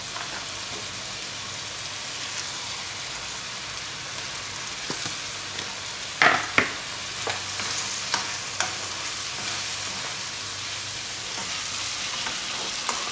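Chicken, tomato and onion sizzling in a hot wok as sliced luffa goes in and a wooden spatula stirs, with scattered scraping ticks and two sharp knocks about six seconds in.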